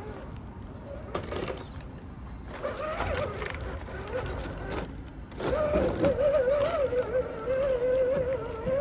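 Electric motor and gearbox of a scale RC crawler truck whining, its pitch wavering as the throttle changes. The whine is intermittent at first and turns louder and steady about halfway through, over gritty crunching and knocks from the tyres and chassis on rough ground.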